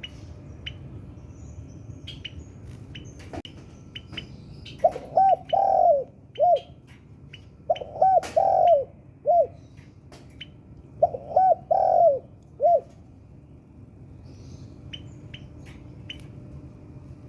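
Spotted dove cooing: three phrases about three seconds apart, each of two short coos, a longer one and a final short coo. Small birds give short high chirps throughout.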